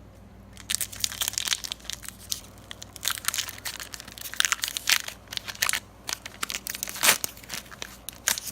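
A foil trading-card booster pack wrapper crinkling and being torn open by hand: a run of irregular crackles starting about a second in, with the sharpest one near the end.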